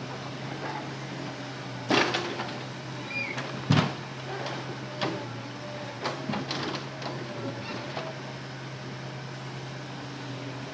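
Steady low hum of a Hitachi Zaxis excavator's engine while it loads logs, broken by a series of sharp knocks and clunks. The loudest knock comes a little under four seconds in.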